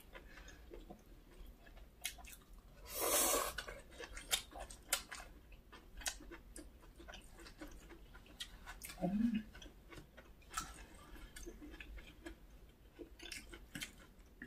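Close-miked mukbang eating sounds: wet chewing of chewy canned whelk and noodles, with many small mouth clicks. About three seconds in there is a louder, noisier moment lasting half a second, and near nine seconds a brief low hum of a voice.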